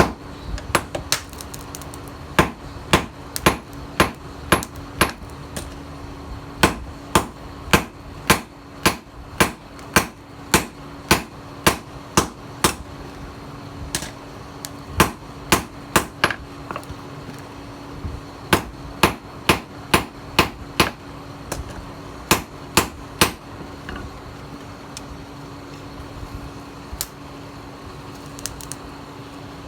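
Hand hammer blows on the steel of a tiller blade being forged into a knife, about two strikes a second in runs with short pauses between them. A steady hum runs underneath.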